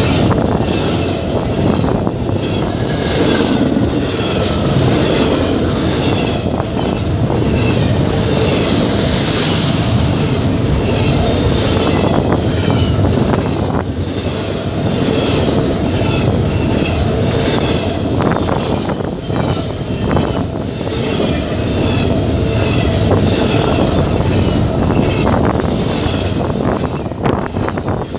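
Double-stack container freight train rolling past right beside the microphone: a loud, steady rumble of steel wheels on rail, with the wheels clicking over rail joints.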